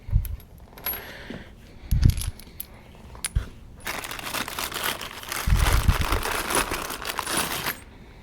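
Loose bolts and nuts clinking and rattling as they are handled and picked through, with a few separate knocks at first and then a dense stretch of rummaging clatter in the second half.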